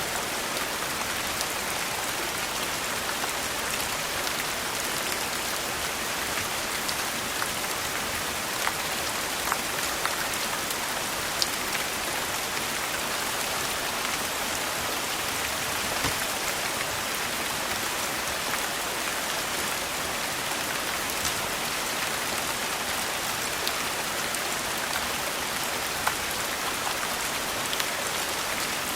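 Steady rain, with scattered sharp crackles from a wood fire every second or so.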